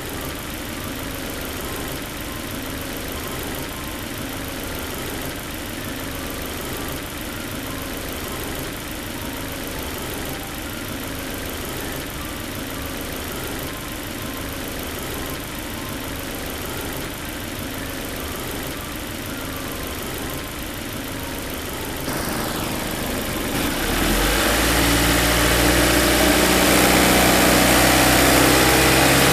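Car engine idling steadily during an oil pressure test. Near the end it is speeded up to about 2000 rpm and grows louder in two steps.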